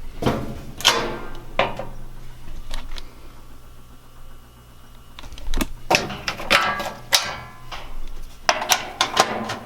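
A series of sharp knocks and clatters, some ringing briefly, in two bunches: a few near the start, then a quick run of them over the last four seconds.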